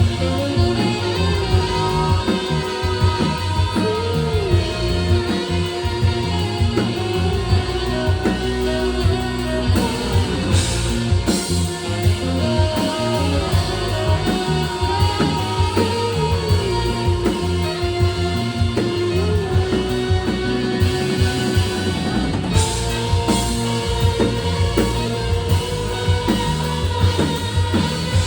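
A rock band playing live: guitar over a drum kit, with a held melody line that bends in pitch.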